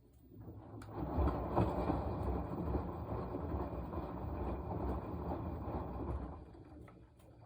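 Washing machine turning its drum for one wash stroke: a rumbling, churning sound swells in, runs for about five seconds and fades away near the end.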